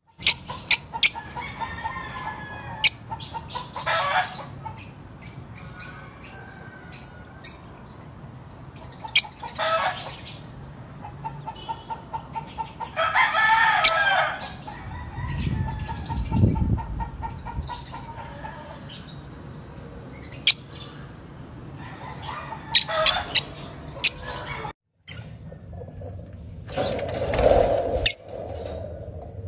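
Red factor opaline lovebirds calling: shrill squawks every few seconds with softer chattering between, mixed with many sharp clicks and knocks.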